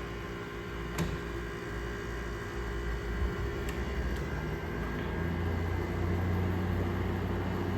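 General Electric 5,000 BTU window air conditioner running in cooling mode, its fan blowing steadily over the low hum of the compressor, which is running normally. A single click comes about a second in, and the low hum grows a little louder past the middle.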